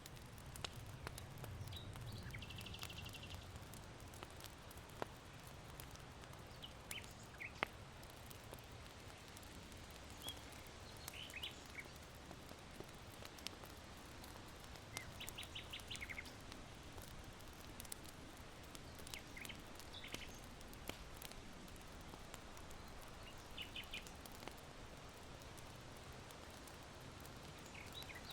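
Charcoal embers in an irori hearth ticking and crackling with small sharp clicks, over a low steady rumble of wind. Small birds chirp in short quick trills every few seconds.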